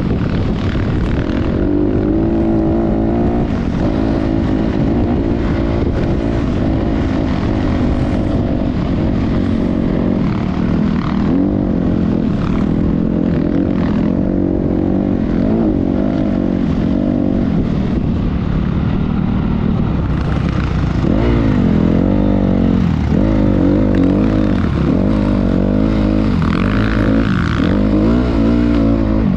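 Motocross dirt bike engine running, its pitch rising and falling repeatedly as the throttle is worked, with quicker, wider revs in the last third.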